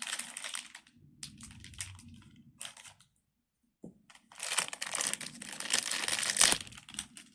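Crinkling of packaging being handled, in a short burst at the start, two brief rustles, then a longer, louder stretch of crinkling from about four seconds in.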